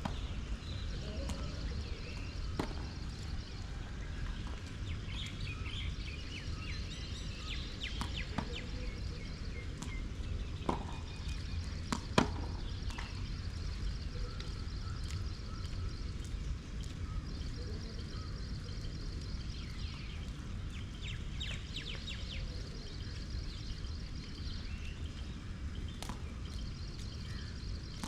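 Steady outdoor background rumble with birds chirping on and off, broken by a few sharp knocks, the loudest about twelve seconds in.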